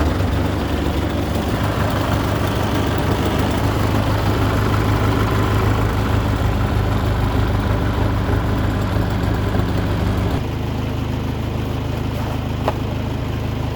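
International Harvester TD8E crawler bulldozer's diesel engine running at warm-up just after being started. About ten seconds in, its sound drops to a lower, steadier note.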